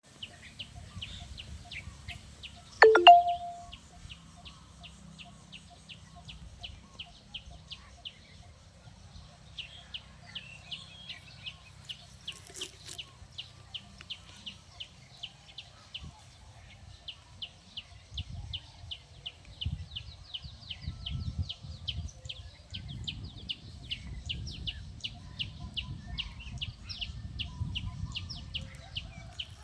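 A bird calling with short, high chirps repeated evenly about three times a second, over a low rumbling noise that grows stronger in the second half. A single loud, short, pitched call stands out about three seconds in.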